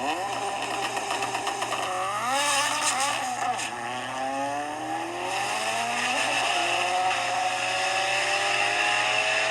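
Race car accelerating hard down a drag strip, its engine pitch climbing through the gears with sharp drops at the shifts, about two and four seconds in, then one long climb.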